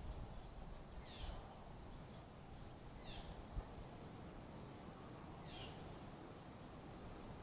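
A bird calling three times, each a short, high note sliding downward, with one to two and a half seconds between calls. The calls are faint, over a steady low rumble.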